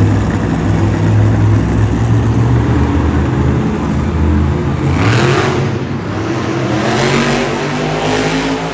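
Monster truck engine revving hard while spinning donuts. The engine runs steady at high revs for about five seconds, then its pitch swings up and down, with noisy surges near the end.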